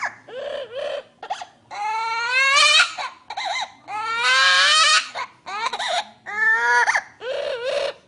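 Green parrot mimicking a human baby crying: a run of wailing sobs, some short and two long drawn-out wails that rise in pitch.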